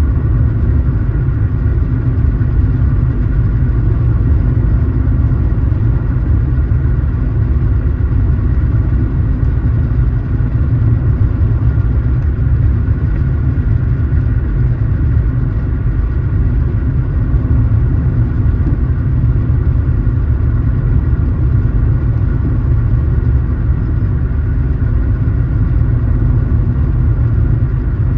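Car driving at a steady pace: the engine and road noise make a continuous low rumble that holds steady throughout.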